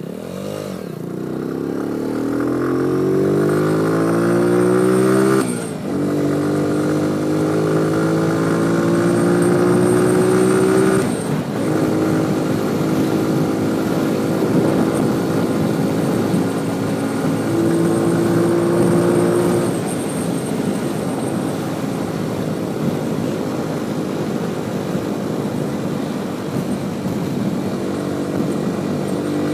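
Motorcycle engine accelerating, its pitch rising steadily, with gear changes about six and eleven seconds in, then holding a steady cruising pitch.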